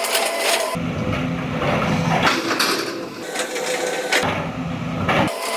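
Sumitomo SH210 hydraulic excavator working: engine and hydraulics running with a steady whine and scattered metallic knocks and clanks, the low rumble swelling twice as it takes load.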